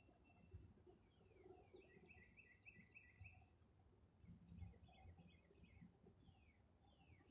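Faint birdsong: a quick run of five repeated chirps about two seconds in, then a series of falling whistled notes. Under it runs a faint low rumble of distant highway traffic.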